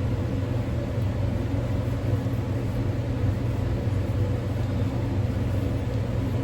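Steady low machine hum that holds at an even level throughout, with no clicks or knocks.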